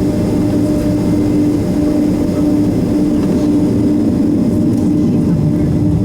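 Steady cabin noise inside a Boeing 767-300 on the ground before takeoff: a low rumble with a steady hum from the jet engines at low power, no spool-up.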